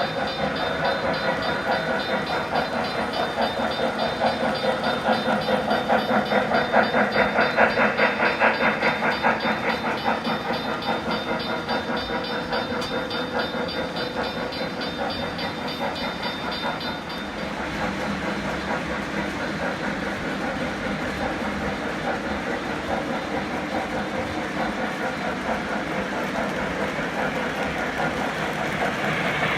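Model train running around a layout: fast, steady clicking of wheels over the track with the hum of the motor, growing louder as it passes close about a quarter of the way in. A thin high whine drops out a little past halfway.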